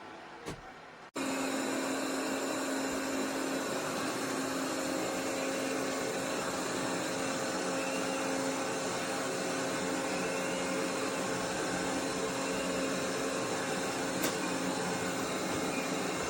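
Eufy RoboVac G30 robot vacuum running: a steady whir of its suction fan with a constant hum, starting abruptly about a second in.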